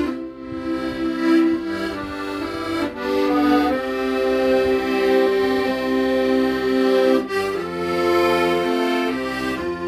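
Accordion playing a slow song melody in long held notes over chords, with low bass notes underneath changing along with the chords.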